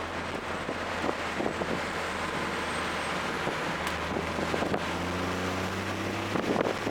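Toyota GR Corolla's turbocharged 1.6-litre three-cylinder engine running at track speed, fitted with an aftermarket intake, over steady wind and road noise. About five seconds in, its note climbs as it revs up.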